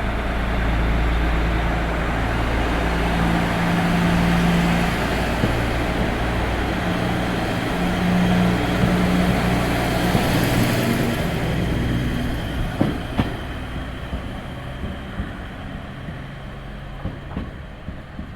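KiHa 37 diesel railcar's engine running hard as it pulls away, its low note shifting in pitch a few times. After about twelve seconds the engine fades and the wheels clack over rail joints.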